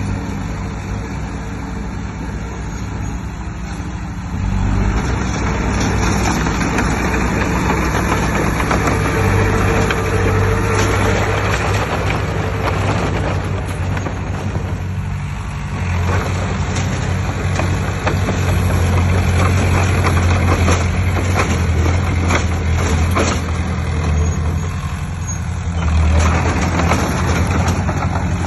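Heavy diesel engine of earthmoving machinery running and working under load, with a rush of noise over it. It gets louder about four seconds in and again around sixteen seconds.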